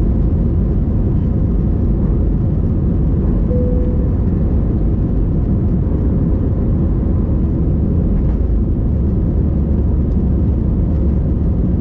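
Steady engine and airflow noise of an Airbus A320 heard from inside the passenger cabin, loud and even throughout. A brief faint tone sounds about three and a half seconds in.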